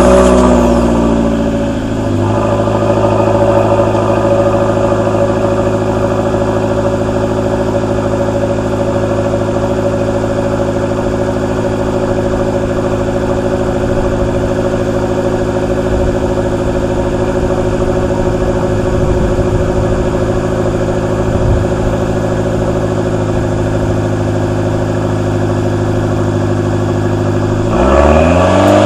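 Stock exhaust of a 2013 Dodge Dart's 1.4-litre turbocharged four-cylinder, just after a cold start. The start-up flare settles over the first couple of seconds into a steady idle, and near the end there is a brief rev that rises and falls.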